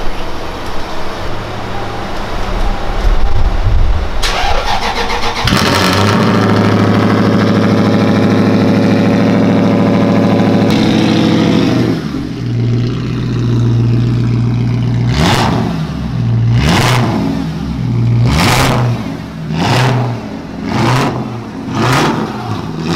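Lexus car engine being started after failing to start: it cranks and catches about five seconds in, runs at a high, loud idle, then settles lower. The throttle is then blipped about six times in quick revs.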